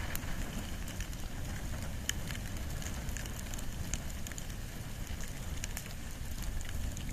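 Wood and bamboo fire burning steadily, with a low rumble of flames and scattered sharp crackles and pops.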